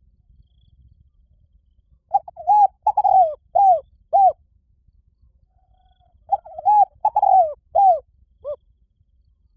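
Spotted dove cooing: two phrases of about five arched coos each, the second phrase ending in a fainter final note.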